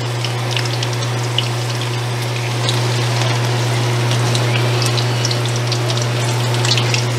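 Potato wedges frying in shallow oil in an aluminium wok, a steady sizzle with scattered crackles and pops, over a steady low hum.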